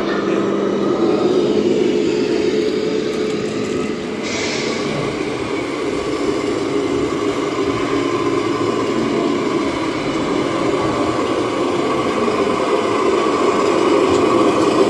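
1/14 scale radio-controlled model truck running, a steady engine-like hum, with a short hiss about four seconds in.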